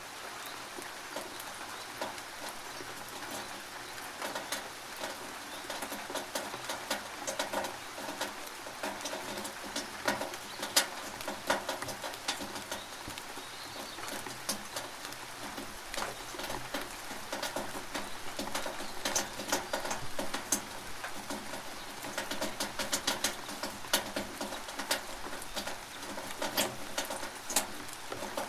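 Rainwater running through a gutter, a steady wash of water with many sharp drip and splash ticks scattered throughout.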